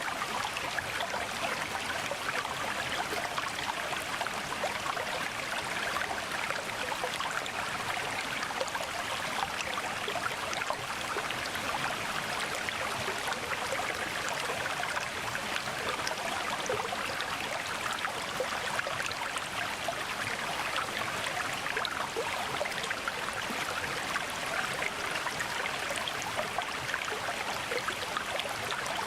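Mountain stream water rushing and splashing over rocks, a steady, unbroken flow.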